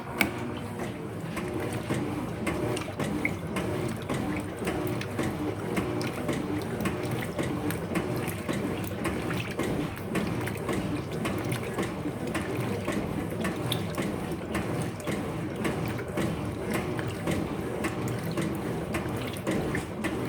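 Electrolux LF75 top-loading washing machine working with water in the tub: a sharp button click right at the start, then steady running and churning water.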